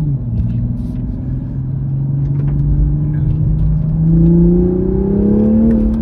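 2022 Toyota GR Supra 3.0's turbocharged inline-six accelerating hard in sport mode, heard from inside the cabin. The engine note drops with a shift into third right at the start. It then climbs steadily with the revs and drops again with a shift into fourth near the end.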